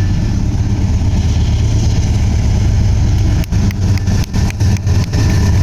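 Train rumbling steadily past at close range, with a few brief dips in loudness around three and a half to five seconds in.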